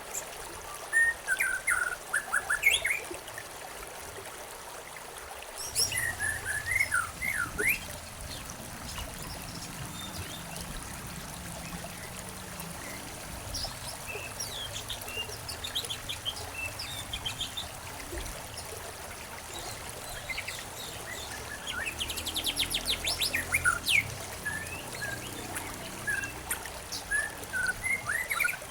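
Small songbirds chirping in short bursts, with a quick trill a little past the middle, over the steady trickle of a stream.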